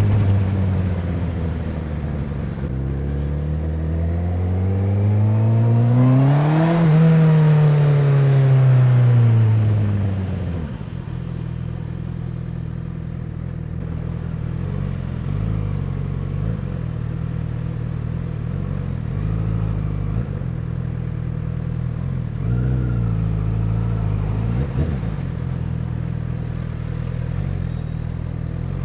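A 2017 Honda CBR1000RR's inline four-cylinder engine, riding with the motorcycle. The revs fall off, climb to a peak about seven seconds in, and drop back. From about ten seconds on it runs at a steady low idle, with a couple of small throttle blips.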